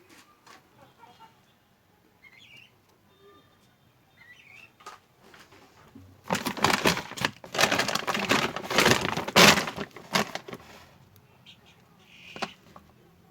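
Faint bird calls, then about six seconds in a loud, rough rustling burst in several pulses lasting about four seconds.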